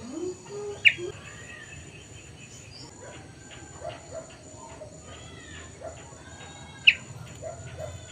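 Kutilang sutra, a black-and-yellow bulbul, calling: two loud, sharp notes, about a second in and near the end, with softer chirps and twitters between them.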